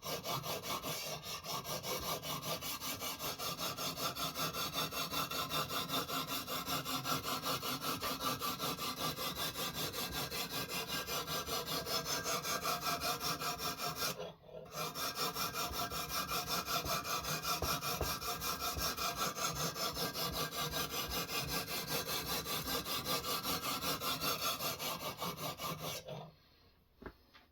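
Abrasive sharpening stone of a guided knife-sharpening system stroked rapidly back and forth along a knife's edge, a steady rasping at about four to five strokes a second. It pauses briefly about halfway through and stops near the end.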